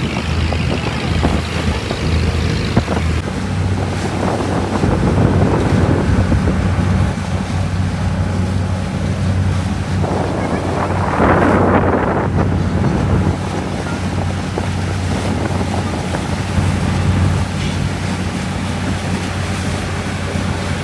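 Boat's engine running steadily under wind buffeting the microphone and rushing water, with a louder rush of noise about halfway through.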